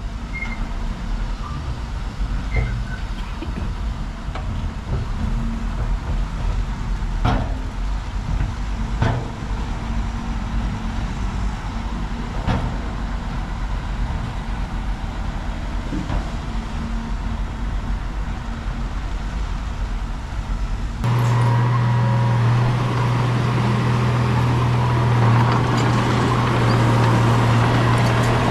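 Heavy earthmoving machine's diesel engine running, with a few sharp metallic clanks. About two-thirds of the way through, the sound switches abruptly to a louder, steadier engine drone.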